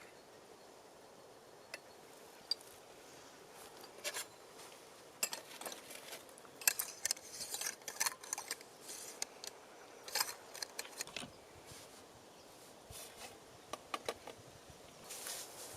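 A run of small, irregular clicks and ticks, thickest in the middle, over a faint steady background.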